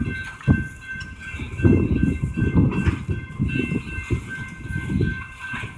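BNSF double-stack intermodal train rolling through a grade crossing: the well cars' wheels rumble and clunk over the crossing in a string of irregular heavy thumps. The crossing bell rings steadily and high above the rumble.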